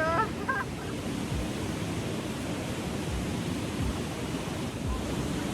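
Steady rushing of water, with a few low wind thumps on the microphone and a brief high-pitched chirp right at the start.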